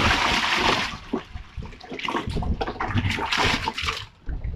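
Water pouring and splashing in two spells, the first in about the opening second and a longer one from about two to four seconds in.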